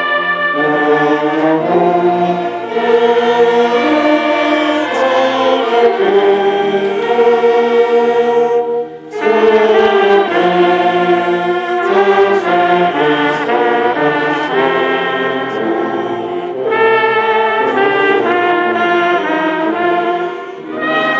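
Brass band playing a slow piece in sustained chords, the notes held about a second each, with a short break about nine seconds in.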